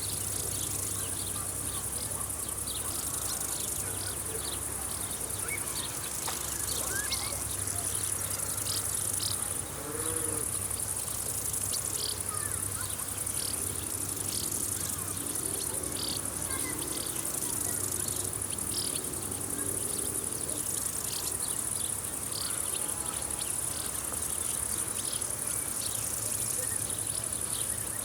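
Summer field insects chirping: a steady high-pitched trill with many short chirps repeating over it, continuous throughout.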